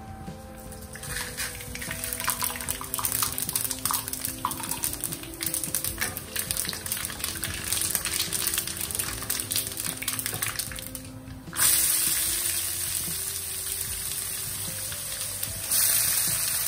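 Whole spice seeds crackling and spitting in hot oil with dried red chillies in a non-stick wok as they are stirred. About two thirds of the way in, chopped onion goes into the oil and the sound jumps to a loud, steady sizzle, growing louder again near the end.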